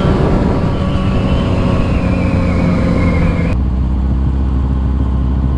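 Motorcycle engine running with wind noise while riding, its note falling steadily as the bike slows. About three and a half seconds in, the wind noise drops away, leaving a low, steady idle rumble.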